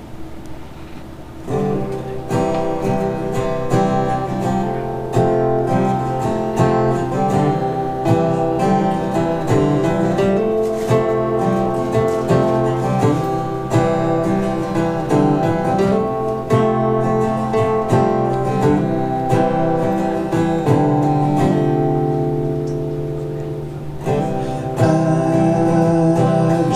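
Acoustic guitar playing a song's instrumental intro, strummed chords with a steady rhythm, starting about a second and a half in and growing louder near the end.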